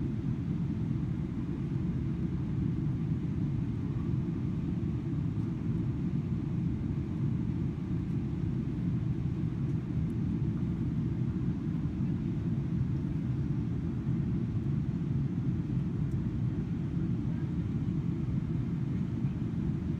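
Steady low rumble of engine and air noise inside the cabin of a Boeing 777-300ER airliner, even and unchanging throughout.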